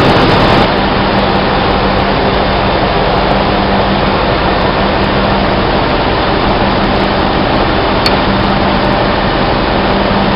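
Ship's engine-room machinery running: a loud, steady din with a constant low hum, easing slightly in level just under a second in.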